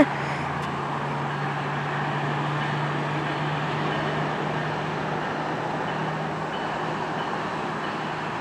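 Steady rumble of a MARC commuter train approaching behind a Siemens Charger diesel locomotive, with a low steady hum from the engine; the end of a horn blast cuts off at the very start.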